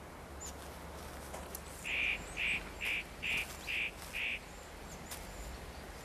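A bird calling six times in a quick, even series, about two calls a second, each call short and harsh, starting about two seconds in.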